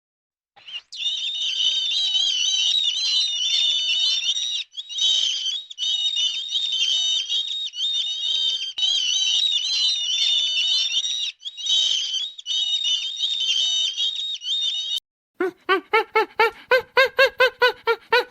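A dense chorus of many small birds chirping and twittering without pause. About three seconds before the end it cuts to a different animal: a quick run of short pitched calls, about four a second.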